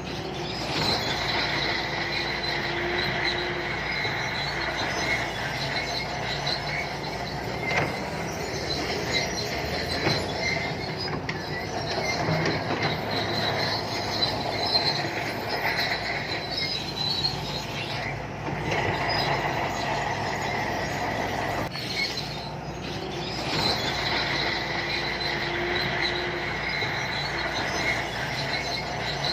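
SANTUI crawler bulldozer working, its diesel engine running steadily while the steel tracks squeal and clank.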